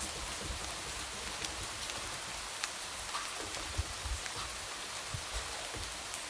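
Light rain falling steadily, a soft even hiss with scattered drops tapping against a window pane.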